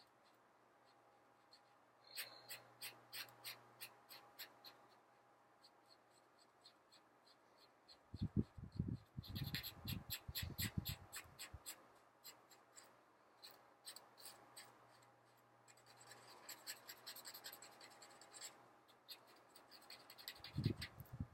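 Felt-tip marker coloring on paper: three spells of quick, repeated scribbling strokes, with a few soft low knocks around the middle and near the end.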